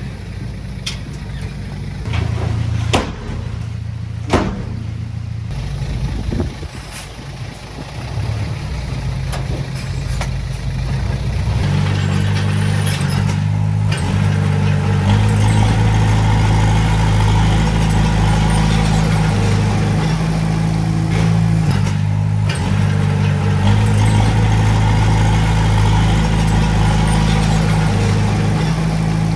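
Diesel engine of heavy earthmoving equipment running. It grows louder from about twelve seconds in, with two sharp knocks about three and four seconds in.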